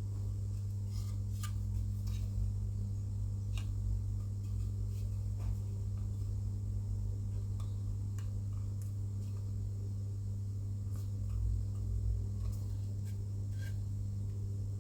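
Steady low electrical hum, with a weaker hum line above it, and a few faint scattered clicks from small model parts being handled.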